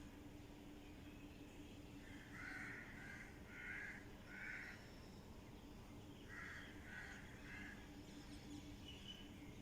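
A bird calling faintly in two runs of short harsh calls, four and then three, over a faint steady low hum.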